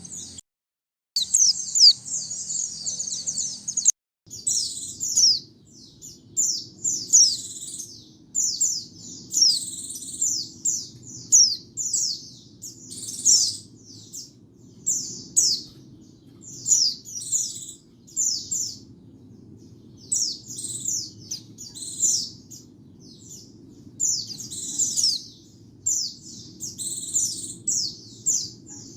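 White-eye (pleci) singing: rapid, high twittering phrases of quick falling notes, one after another with short pauses, over a faint low hum.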